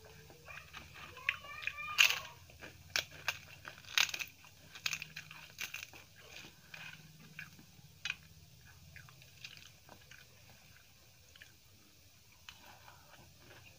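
Crisp papadam being bitten and chewed with rice: a quick run of sharp crunches in the first half, the loudest about two and four seconds in, then sparser, softer chewing.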